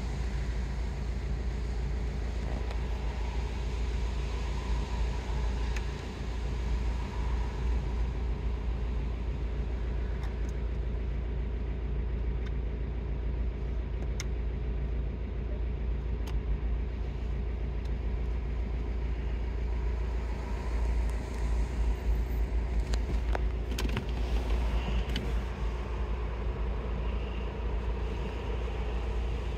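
Steady low hum of a Jeep Renegade's MultiJet diesel engine idling, heard from inside the cabin, with a few light clicks a little over two-thirds of the way through.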